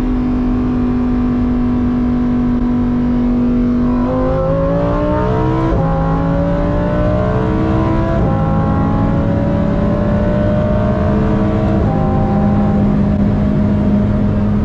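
Lamborghini engine heard from inside the cabin, cruising steadily, then accelerating hard about four seconds in: the revs climb and fall back three times as it shifts up through the gears.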